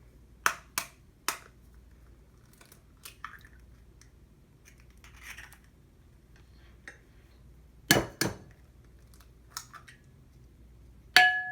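Kitchen clatter: a series of sharp knocks and clinks of dishes and utensils being set down and handled. Three come in quick succession at the start and two loud ones come later. One near the end rings briefly like glass or ceramic.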